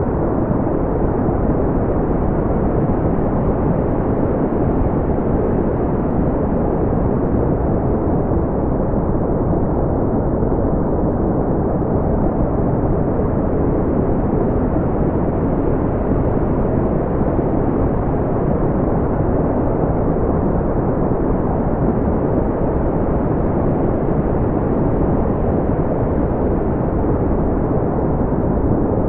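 Steady brown noise: a deep, even rumbling hiss with no high end, unchanging throughout.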